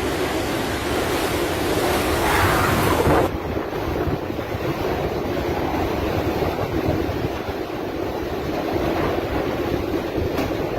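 Storm wind from a typhoon buffeting the microphone, with a constant rushing noise like surf. It swells up to about three seconds in, then the hiss drops off suddenly and the blowing carries on steadily.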